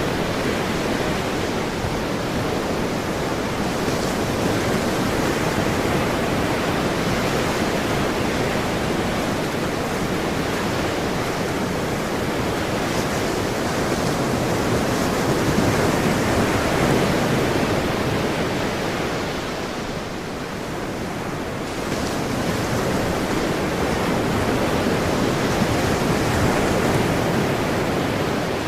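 Ocean waves washing onto a shore, a steady rush of surf that swells and eases slowly, with a brief lull about two-thirds of the way through.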